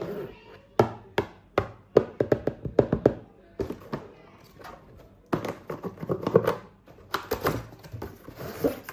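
Plastic toys and packaging being handled: an irregular run of taps, clicks and thunks, some in quick clusters.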